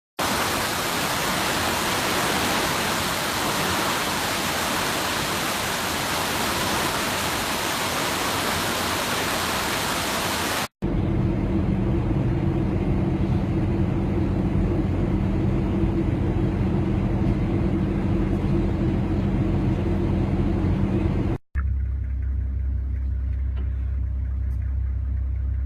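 Steady sounds cut together twice: first a rushing hiss for about ten seconds, then a steady low hum with a few held tones. Near the end comes a deep, steady rumble of a vehicle engine idling.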